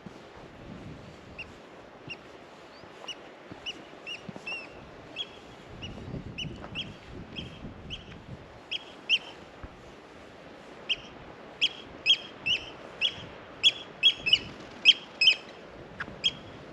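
A bird calling in a series of short, high, sharp notes, sparse at first, then louder and in quick runs near the end.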